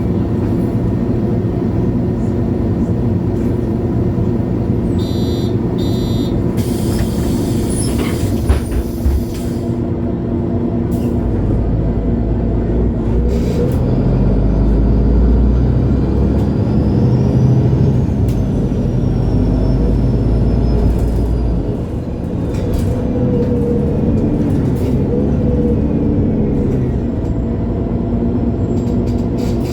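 Onboard a MAN Lion's City G articulated bus with its six-cylinder diesel: the engine idles steadily, a couple of short beeps sound about five seconds in, and a loud hiss of compressed air follows. Then the bus pulls away, the engine working harder and its pitch rising and falling as it accelerates through the gears.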